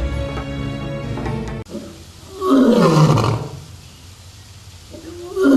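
Music cuts off abruptly, then a loud roar slides steeply down in pitch for about a second; a second roar begins near the end.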